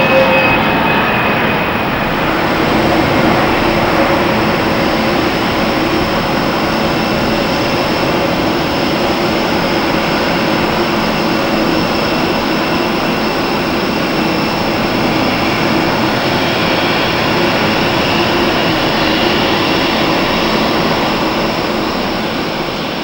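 Jet airliner engines running at high power, a loud steady roar with faint whining tones, dying away near the end.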